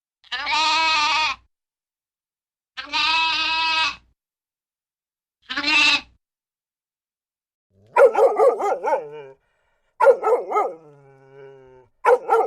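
Three long, wavering bleats, each about a second long. Then, about eight seconds in, a dog barks in quick bursts and whines between them.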